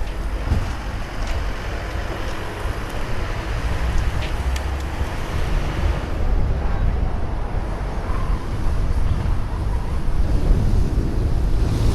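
Wind buffeting the microphone of a camera riding on a moving bicycle: a steady, fluctuating low rumble with a faint hiss of outdoor background noise.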